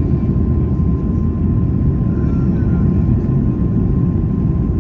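Airbus A330 cabin noise in flight: a steady, loud low rumble of engines and airflow, with a faint steady whine on top.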